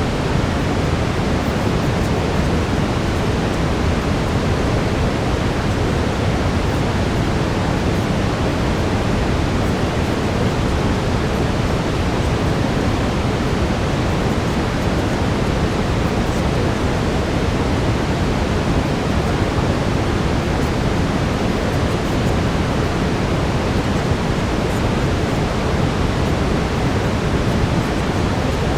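Steady brown noise: an even, unchanging rush weighted toward the low end, with no distinct events.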